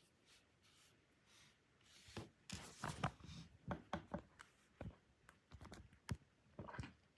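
Faint, scattered clicks and scratches of small plastic toy-train parts being handled, as a gear is worked out of the train's gearbox, starting about two seconds in.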